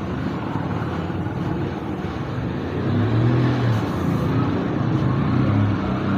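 A motor vehicle engine running, its pitch rising and falling, louder from about halfway through.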